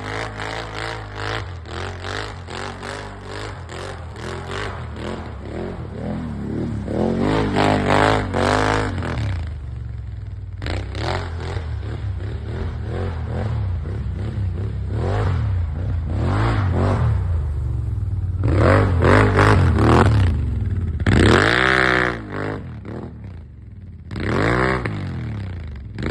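Can-Am Outlander XT-P 1000 ATV's V-twin engine through an aftermarket Yoshimura exhaust, revving up and dropping back again and again as it is ridden, with the loudest revs about 19 to 22 seconds in.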